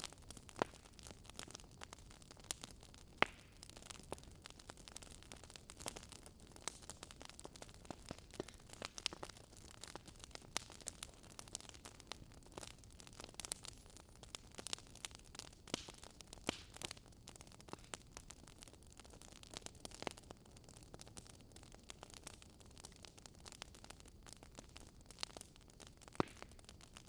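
Wood fire crackling, with many irregular sharp pops and snaps over a soft steady hiss.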